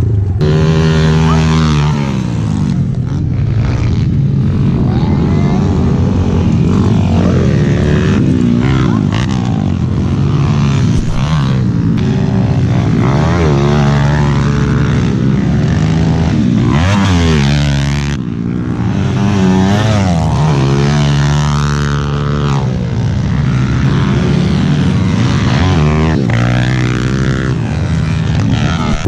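Small single-cylinder four-stroke pit bike engine, a Kawasaki KLX110L, revving up and falling back again and again as it is ridden around a motocross track.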